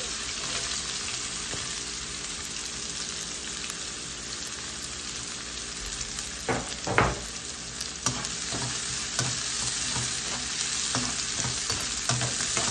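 Chopped shallots and garlic sizzling in hot oil in a wok. From about six and a half seconds a metal slotted spatula knocks and scrapes against the wok as they are stirred, with the loudest knock about seven seconds in.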